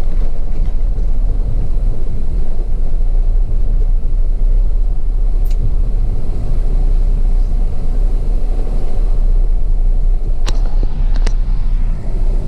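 Truck running with a steady low rumble, with a few sharp clicks about five seconds in and twice near the end.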